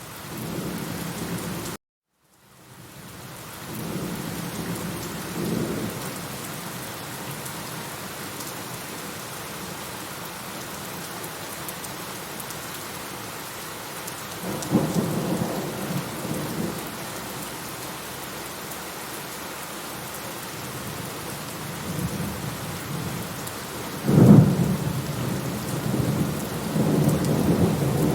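Steady rain with rumbles of thunder: low rolls a few seconds in and about fifteen seconds in, and a louder, sharper thunderclap rolling on near the end. The sound cuts out briefly about two seconds in and fades back in.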